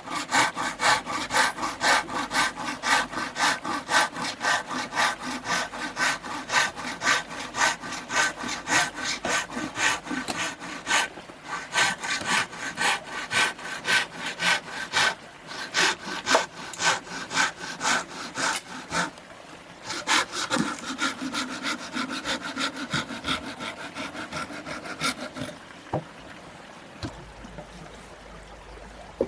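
Hand saw cutting through wood in quick back-and-forth strokes, about two to three a second, pausing briefly partway and stopping a few seconds before the end.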